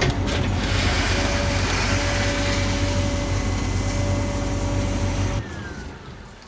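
A construction machine's engine running steadily close by: a low rumble with a faint steady whine. It cuts off abruptly about five seconds in.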